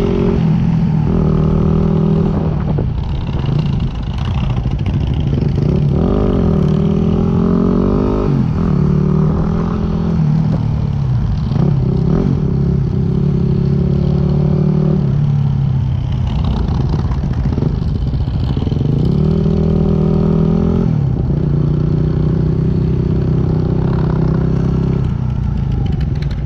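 Yamaha WR250X single-cylinder four-stroke engine riding at low speed. The revs rise twice and hold steady in between, with wind rumble on the microphone.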